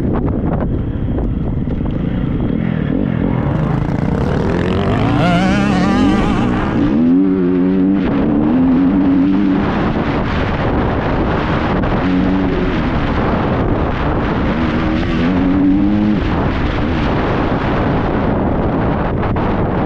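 Triumph 250 motocross bike's single-cylinder four-stroke engine revving hard under riding, its pitch climbing and dropping several times as the throttle opens and shuts and gears change, over a constant rough rush of noise and knocks.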